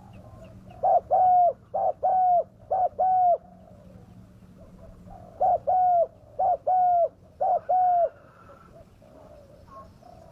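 Spotted dove cooing: two calls, about four seconds apart, each of three paired low coos, a short note followed by a longer one.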